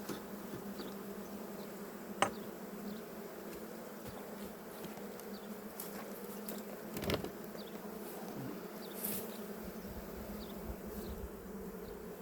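Honey bees buzzing steadily around an opened hive as they are smoked down off the top of the box. A sharp click sounds about two seconds in and a brief knock about seven seconds in.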